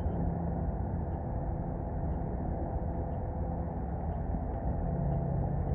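Steady low rumble of strong wind and city traffic, with a faint engine hum running through it.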